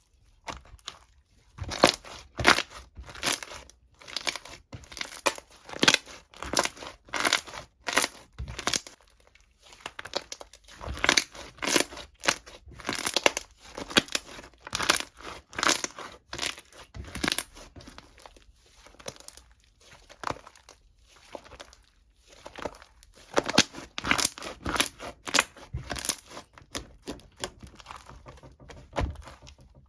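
Crinkling and crumpling of a crinkly material being handled, in short irregular bursts with quieter gaps about a third of the way in and again past the middle.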